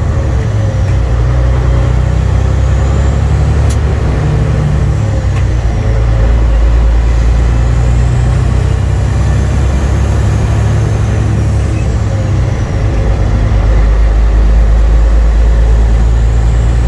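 Semi truck's diesel engine running under way, a deep steady drone that grows louder about six seconds in and again near the end.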